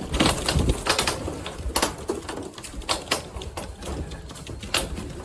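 Racing pigeons at the loft: irregular wing flaps and clatter, with some cooing near the start.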